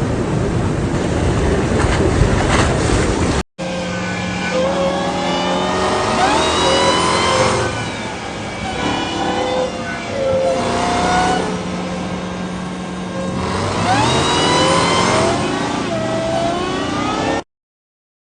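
Off-road vehicle engine revving, its pitch repeatedly rising and falling. A short gap comes about three and a half seconds in, and the sound cuts off sharply near the end.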